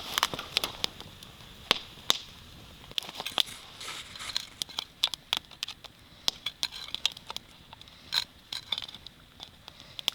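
Wood campfire crackling, with irregular sharp snaps.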